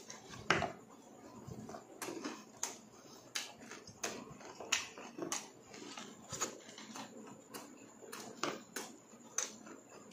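Close-miked chewing of a mouthful of pork innards and rice, with wet lip-smacks and mouth clicks coming irregularly, about one or two a second.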